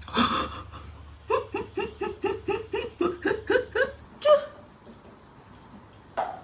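A person laughing: a quick run of about a dozen short "ha" bursts, about four a second, lasting some two and a half seconds, followed by a short voiced sound.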